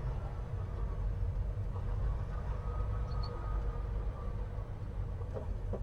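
Volvo semi-truck's engine running with a steady low rumble, with faint steady tones above it.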